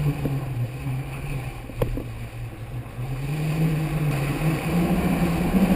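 A motor running steadily with a low drone, its pitch rising a little in the second half, and one short click about two seconds in.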